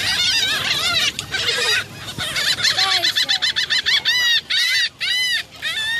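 A flock of gulls calling over one another as they are fed. Shrill overlapping cries, with a quick run of short calls in the middle and several long arching cries near the end.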